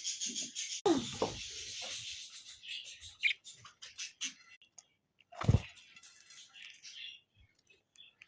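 Budgerigars chattering, a rapid high-pitched twittering of short chirps and clicks, thinning out after about five seconds. Two knocks break in, one about a second in and a louder one about five and a half seconds in.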